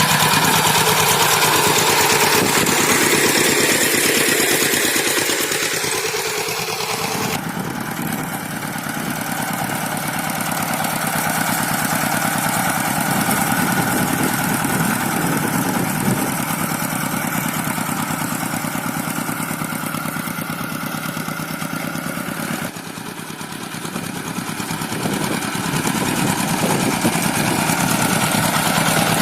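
Single-cylinder diesel engine of a two-wheel hand tractor running with an even chugging pulse. The sound changes abruptly about a quarter of the way in and again about three quarters of the way in.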